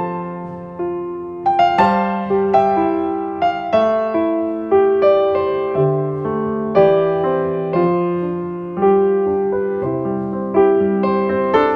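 Background piano music: a slow melody of single notes and chords, each struck and left to fade, about one a second.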